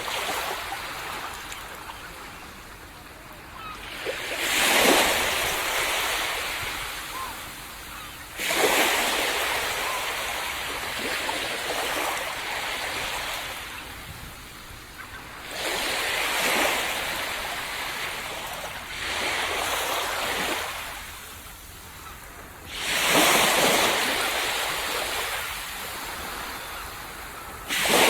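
Ocean waves breaking on a tropical beach: a rush of surf comes in every four to seven seconds, each swelling quickly and then washing out more slowly before the next.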